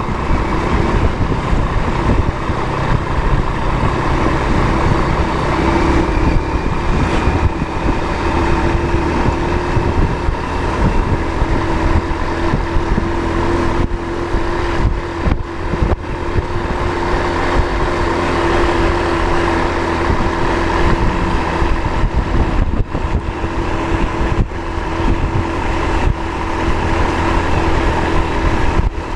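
Road vehicle driving along at speed: a steady engine drone over continuous low road rumble and wind noise.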